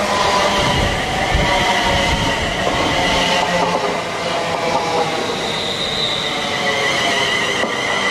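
A train running past on the rails: a steady loud rumble of wheels with several high, wavering squealing tones over it.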